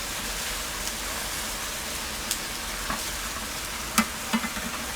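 Chicken pieces frying in a pan with a steady sizzle, and a few sharp taps of a utensil against the pan, the loudest about four seconds in.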